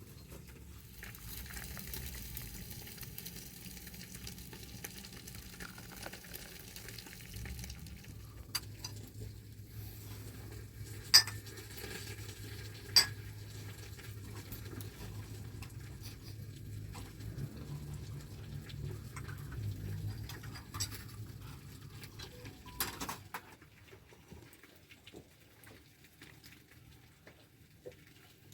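A utensil stirring and clinking against a metal cooking pot, with scattered light clinks and two loud, sharp ones partway through. A steady low rumble underneath stops near the end.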